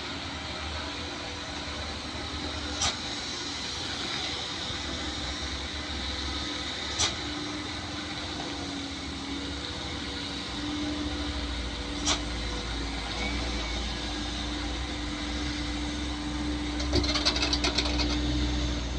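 Truck engine running steadily, its low rumble growing louder about halfway through. A few sharp single clicks sound along the way, and a quick rattle of clicks comes near the end.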